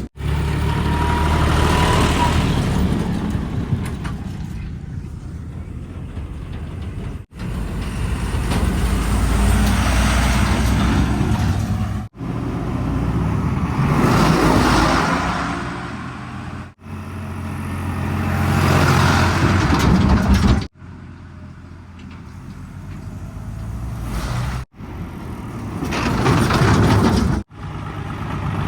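Heavy diesel machinery working: a backhoe loader and tractor engines running and revving up and down under load. The sound is broken by sudden cuts every few seconds, as short clips are joined one after another.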